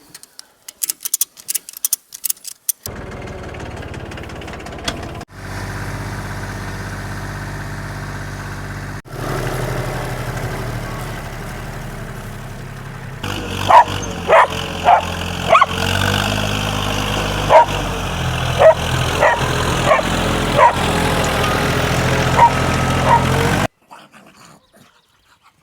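Diesel engine of a Yanmar FX20D compact tractor running steadily, with a dog barking sharply and repeatedly over it in the second half. A quick run of clicks comes before the engine sound starts.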